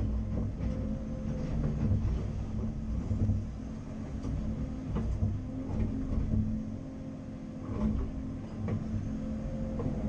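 CAT 330 Next Generation excavator working: the diesel engine and hydraulics run with a steady hum and low rumble, and short knocks and clunks come and go from the machine and its bucket.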